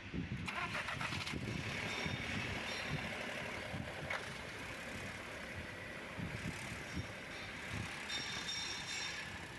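Volkswagen Golf engine idling, heard close up in the open engine bay, with brief handling noise about half a second in.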